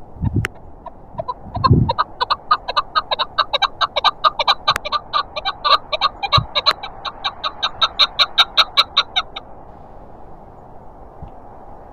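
Chukar partridge giving its rapid clucking call, a run of short notes at about five a second that builds up over the first two seconds and stops about nine seconds in. Wind hisses steadily underneath, with a few low buffets on the microphone near the start.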